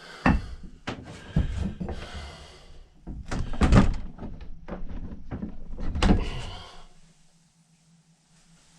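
Irregular knocks, bangs and scraping thuds from working on an old axe head, which is stuck fast and rusted. The heaviest blows come a little over three seconds in and again around six seconds, and the knocking stops about seven seconds in.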